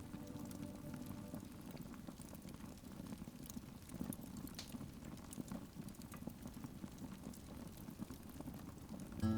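Wood fire burning in a fireplace: a low steady rumble of flames with scattered sharp crackles and pops, one of the strongest about four seconds in.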